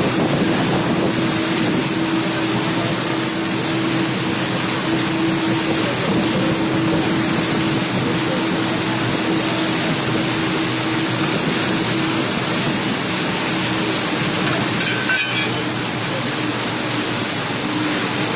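Rain falling steadily, an even hiss with a faint low hum underneath and a single brief knock near the end.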